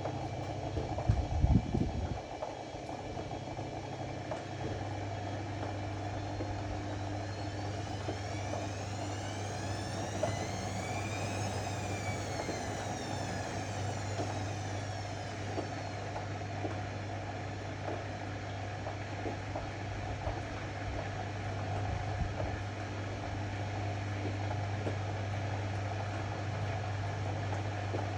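Ariston AML125 washer-dryer running with a steady low motor hum, with a few heavy knocks about a second in and a faint whine that rises and then falls in pitch near the middle.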